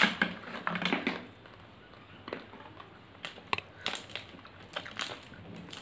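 Close-miked eating: wet chewing with crackly mouth clicks, densest in the first second, then scattered smacks and clicks.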